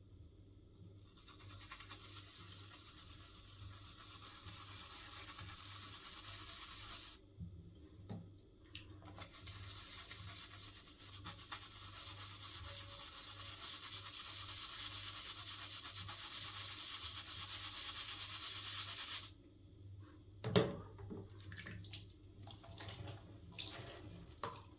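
A bristle brush scrubbing plastic keyboard parts in two long stretches of steady scrubbing, with a short break about seven seconds in. A few clicks and knocks follow near the end.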